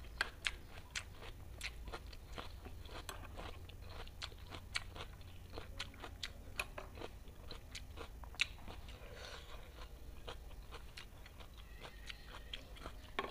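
A person chewing a bite of raw cucumber, with a steady run of crisp crunching clicks.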